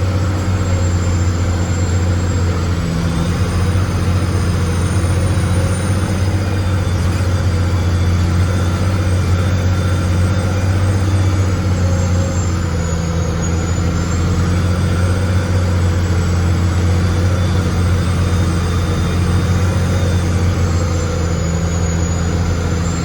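Heavy engine running steadily under load, a deep constant drone with a faint high whine that slowly rises and falls.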